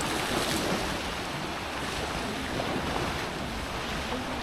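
Sea surf washing in steadily, with some wind on the microphone.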